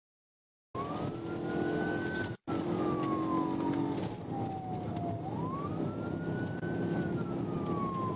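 Police car siren on a slow wail, rising and falling over the steady engine and road noise of a pursuit at speed. The sound cuts in after a moment of dead silence and drops out briefly about two and a half seconds in.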